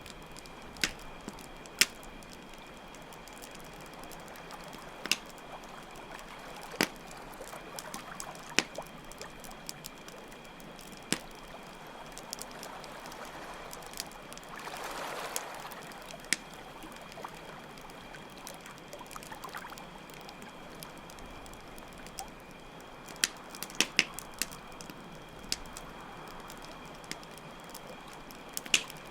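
Campfire crackling with sharp, irregular pops over a steady trickle of running water and a constant high chirping of crickets. About halfway through, the water briefly swells louder.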